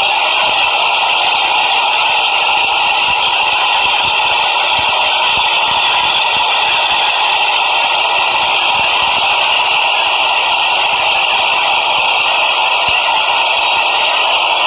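Subway train running at a steady speed, a continuous rattling track noise that holds the same level throughout.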